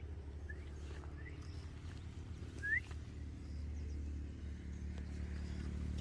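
Three short, high, rising bird chirps, the last and clearest about halfway through, over a low steady rumble.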